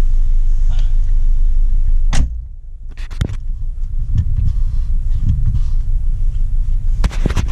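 Volkswagen Rabbit's engine running with a low rumble, a sharp knock about two seconds in after which the sound drops quieter, and a few sharp clicks near the end.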